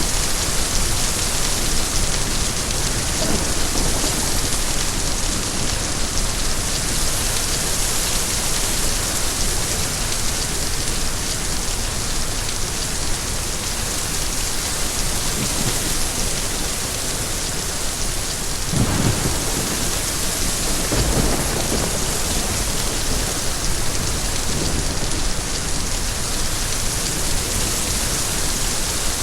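Steady rain falling, with a low roll of thunder rumbling about two-thirds of the way through.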